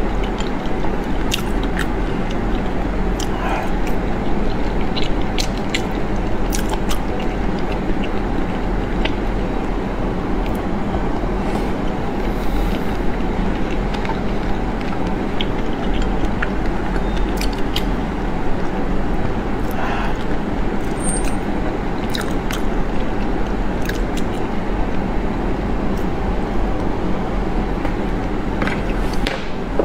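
Close-miked chewing of raw salmon topped with salmon roe, with scattered short wet mouth clicks. A steady rushing background noise lies underneath and is louder than the chewing.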